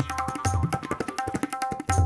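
Tabla playing a fast rhythm: quick ringing strokes on the treble drum over deep bass-drum strokes that bend in pitch.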